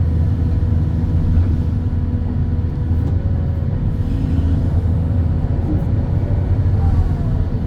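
Excavator's diesel engine running steadily with a low, even rumble and a constant hum.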